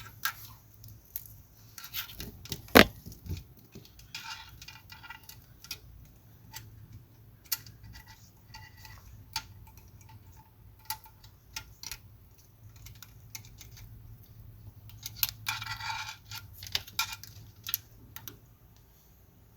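Extendable magnet pickup tool clicking and clinking against the steel of the tractor's hydraulic sump as it is worked around inside for metal shavings. One sharp knock about three seconds in, and bursts of ringing metallic rattling around four seconds in and again near the end.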